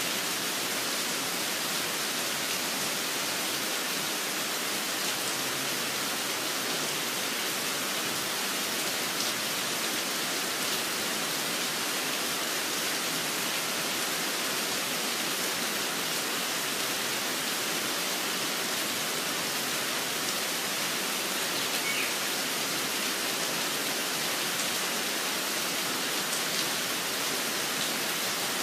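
Steady rain falling, an even hiss that does not let up, with one short high chirp, likely a bird, about three-quarters of the way through.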